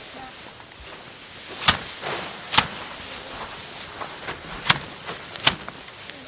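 Handfuls of cut rice stalks beaten by hand to thresh out the grain: four loud, sharp thwacks at uneven intervals, with fainter knocks between them.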